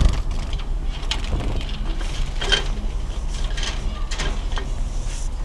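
Handling noises from a bird cage or nest box: a few short clicks and scrapes, mixed with brief high bird chirps, over a steady low hum.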